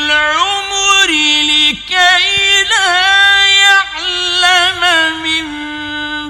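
Quran recitation: a male reciter chanting in slow, melodic tajweed, holding long notes with ornamental turns between short pauses.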